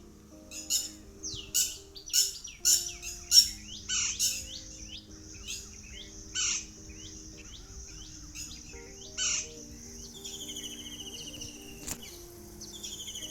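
Small songbirds chirping in quick, sharp down-slurred notes, then a falling buzzy trill that comes twice near the end. Soft background music with held notes plays underneath.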